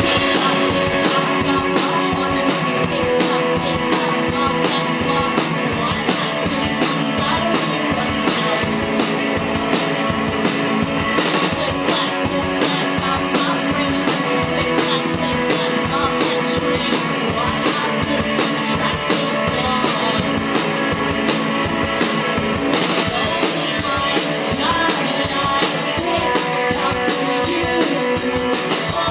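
Live rock band playing an instrumental passage: electric guitar over a drum kit keeping a steady, even beat, starting at once.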